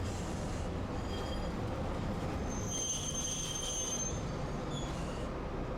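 Tosaden streetcar's steel wheels squealing against the rails: a high screech about two and a half seconds in that lasts over a second, with shorter squeaks before and after, over the tram's steady low running rumble.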